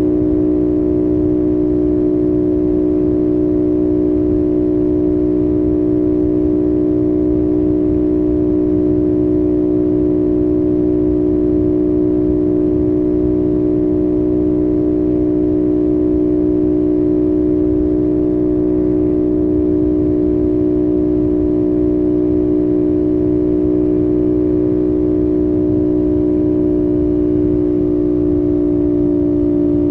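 CFMOTO 450SS's parallel-twin engine at a steady cruise, its engine note holding one constant pitch over a low rumble.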